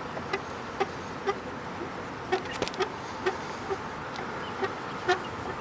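Chickens clucking: short, separate notes coming irregularly every half second or so, with a few light clicks in the middle.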